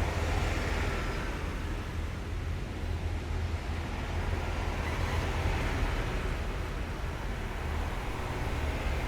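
Heavy military vehicles driving past in a column: a steady, deep engine rumble with road noise that swells as each vehicle goes by.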